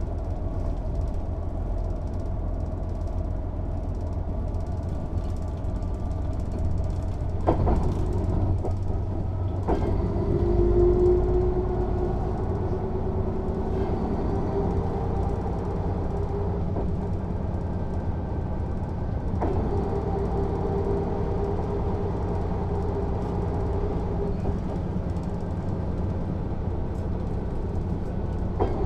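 Mercedes-Benz O 407 city bus heard from on board while driving: the diesel engine's steady low drone with cabin rattle. A humming tone comes in about ten seconds in, and a few knocks sound, about eight, ten and twenty seconds in.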